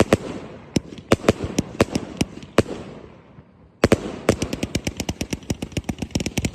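Multi-shot firework cake firing: sharp reports a few a second with crackle between them, a short lull about three seconds in, then a rapid volley of about seven shots a second that stops near the end.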